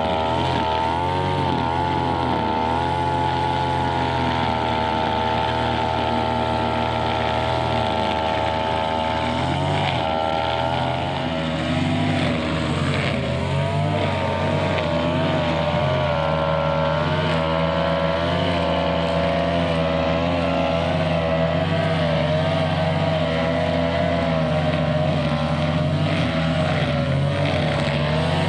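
Brushcutter engine running at high revs. Its pitch dips and recovers now and then, most plainly near the start and again in the middle stretch.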